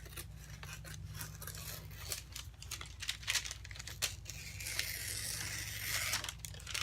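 Scissors cutting parchment paper, with the sheet crinkling: a run of short snips and crackles, then a longer continuous rasp of paper from about four and a half seconds to six seconds in.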